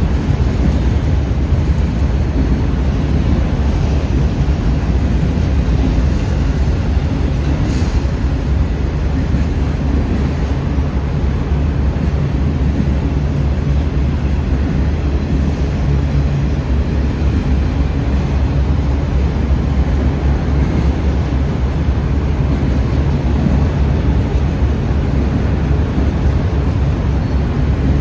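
CSX freight train rolling past with a steady low rumble of wheels and cars.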